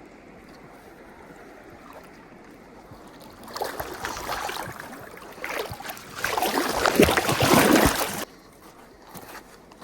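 River current running steadily, then about five seconds of loud, irregular splashing and sloshing water that cuts off suddenly.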